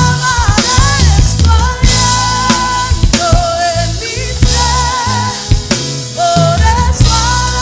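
Live worship band music: a singer's sustained melody with vibrato over a drum kit with kick drum and cymbals, and a band behind them.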